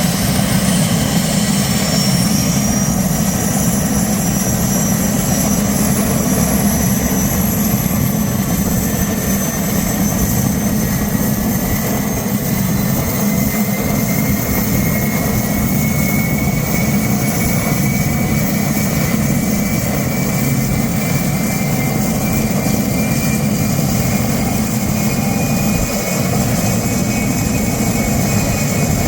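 Homemade single-engine helicopter built on a Mi-1 airframe running steadily: GTD-350 turboshaft and rotor, with a turbine whine that rises slowly in pitch over the deep, even rotor and engine sound.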